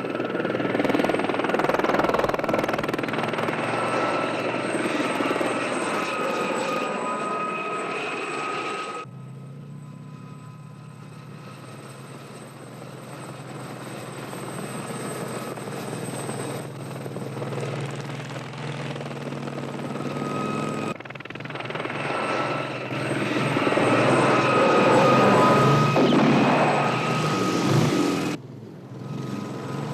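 Helicopter running, its rotor noise and steady high turbine whine loud at the start. About nine seconds in the sound drops abruptly to a quieter, lower engine drone. It swells back up at about twenty-one seconds, with another sudden dip near the end.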